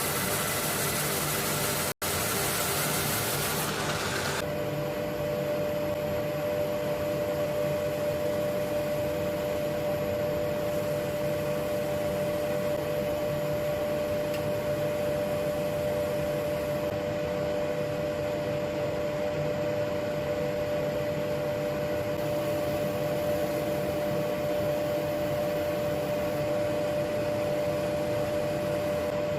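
Steady drone of a woodturning lathe running with dust extraction, a continuous machine hum with a clear tone. A brighter hiss lies over it for the first four seconds or so, with a momentary dropout about two seconds in.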